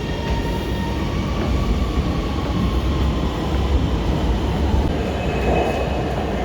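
Lahore Orange Line electric metro train running, a steady heavy rumble with a faint electric whine over it.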